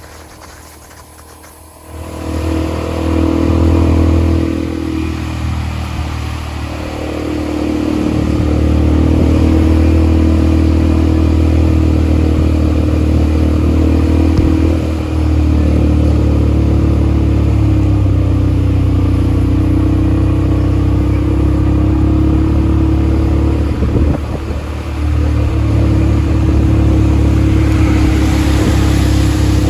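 ATV engine picking up sharply about two seconds in, then running steadily under throttle.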